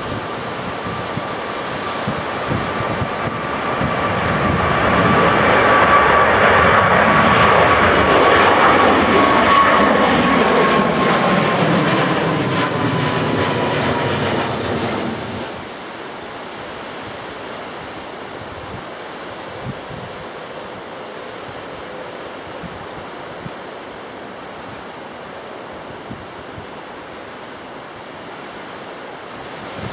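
Airliner engines passing close by, swelling to a loud run with a high whine that slowly falls in pitch, then cutting off suddenly about halfway through. Wind buffets the microphone for the rest.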